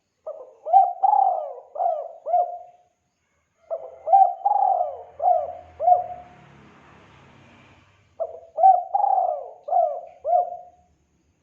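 Spotted dove cooing as a luring call: three phrases, each a run of about five short coos, with brief pauses between phrases.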